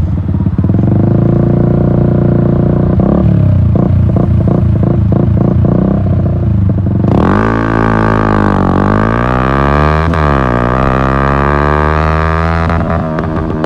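Yamaha MT-125's single-cylinder engine running through an Akrapovic exhaust. About halfway through it gives way abruptly to synthesizer music with sweeping pitches.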